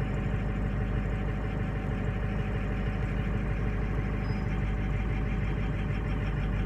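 Diesel truck engine idling unevenly while still cold, with several injectors misfiring so that cylinders drop out and pick back up: injector stiction, which the mechanic puts down to the oil side of the injectors.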